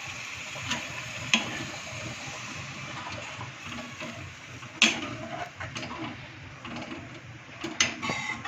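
Chicken kheema curry in a kadhai over a gas flame, cooking with a steady hiss after a glass of water has been added. A few sharp clinks of a spoon against the kadhai, the loudest about five seconds in and a quick cluster near the end.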